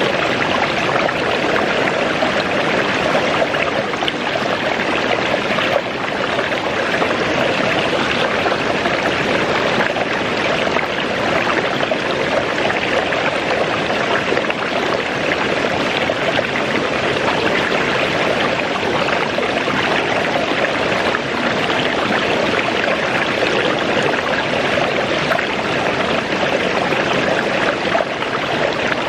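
Waterfall and its stream of rushing water: a steady, unbroken rush with no single splashes standing out.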